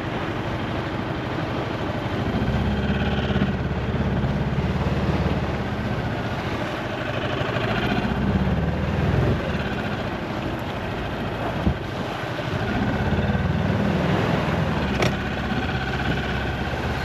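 Small boat's outboard motor running at low speed, its drone swelling and easing several times, over wind and water noise. There is a single sharp click about fifteen seconds in.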